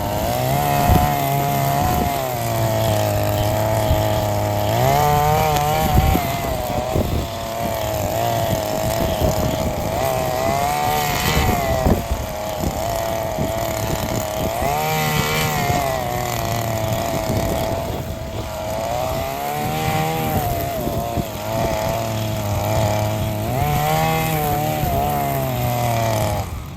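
Small petrol engine of mowing equipment running at high speed. Its pitch sags and recovers every few seconds as it takes load in dense overgrown grass, and it cuts off abruptly near the end.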